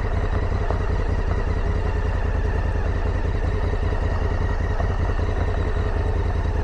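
Motorcycle engine running steadily with an even, low pulsing rumble.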